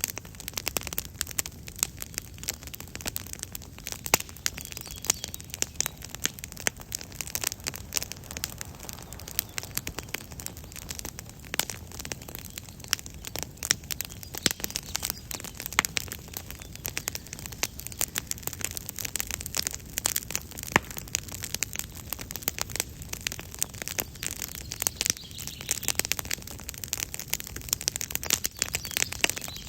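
Wood campfire crackling, with dense, irregular sharp pops and snaps over a steady low rumble of the flames.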